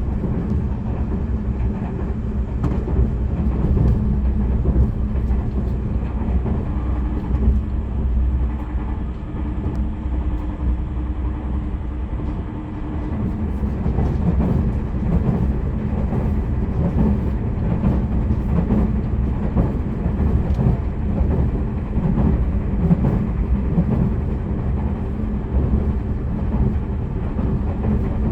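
Tobu Railway limited express train running at speed, heard from inside the passenger car: a steady low rumble of wheels on rail with faint ticking.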